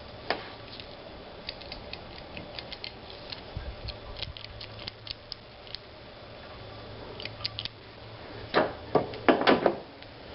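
Hand tools and parts being handled during a serpentine belt and pulley job: a scatter of light clicks and taps, then several louder knocks close together near the end.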